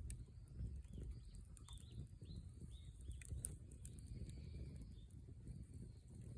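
Small birds chirping: a run of short calls that each drop in pitch, busiest in the middle, over a low steady rumble.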